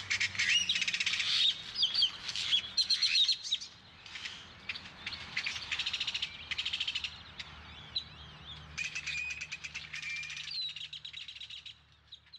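Several birds chirping and singing, with short swooping notes and fast trills overlapping; the song thins out and fades near the end.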